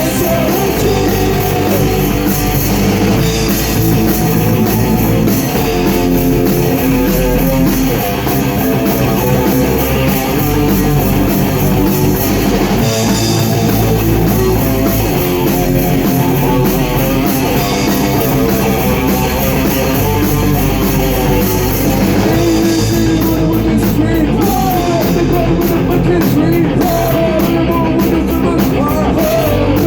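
Rock band playing a song live in rehearsal: electric guitar, bass and drum kit with cymbals keeping time, and a voice singing over it.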